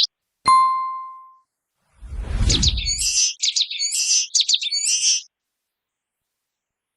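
A single bell-like ding rings out and fades over about a second. Then a common waxbill gives a quick series of high, buzzy chirping calls for about three seconds, with a low rumble under the first of them.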